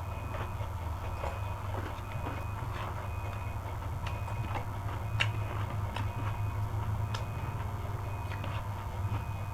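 Close-up eating sounds: chewing, with scattered sharp clicks as the food is eaten, over a steady low hum and a faint short tone that repeats about once a second.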